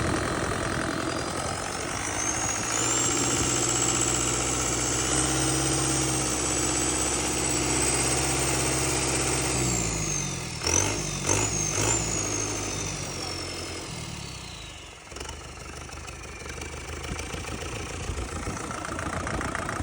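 Engine running with a high whine that climbs in the first few seconds and holds. About halfway through, the engine note drops away with three sharp knocks, and the whine glides steadily down. A quieter engine sound carries on near the end.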